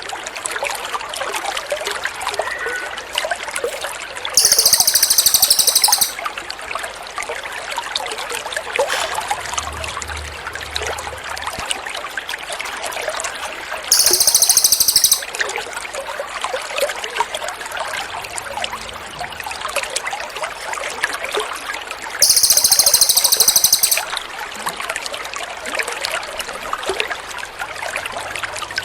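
Water trickling steadily, with a loud, very high, rapid buzzy songbird trill breaking in three times, each lasting about a second and a half, roughly every eight seconds. It is part of a bird-song tutor track made to teach caged songbirds.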